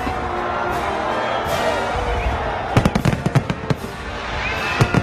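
Fireworks going off: a dense crackling haze, then a quick run of sharp bangs about three seconds in, with short whistles from rising shells near the end.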